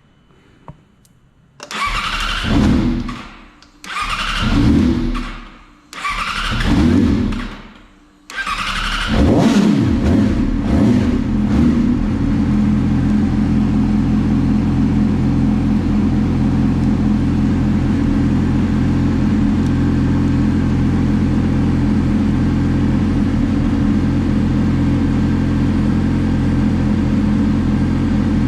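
Yamaha YZF-R6 inline-four engine being started: three bursts on the starter of about two seconds each, then it catches about nine seconds in, is blipped a few times and settles into a steady idle. The bike is hard to start and, as the owner says, has to be revved to about 4000 rpm before it will hold an idle, which he takes to mean something is wrong.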